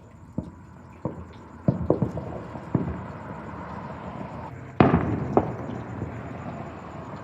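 Fireworks and firecrackers going off: a string of sharp bangs in the first three seconds, then the loudest bang near the middle with a trailing rumble and one more shortly after.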